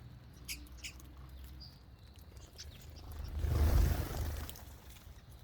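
Birds chirping briefly a few times, then a loud rushing noise that swells and fades about three to four seconds in.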